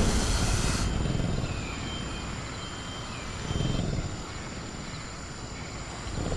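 Dinosaur sound-effect ambience: a loud noisy burst cuts off within the first second, then low rumbling growls of a caged velociraptor swell and fade over a steady high cricket-like tone, with a few faint chirps.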